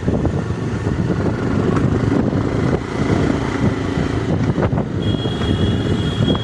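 Wind buffeting the microphone over a vehicle's steady running noise. A thin high tone joins about five seconds in.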